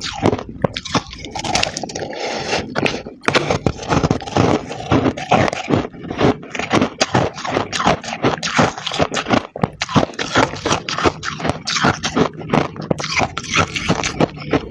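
Freezer frost being bitten and chewed close to the microphone: a dense, unbroken run of crisp crunches and crackles.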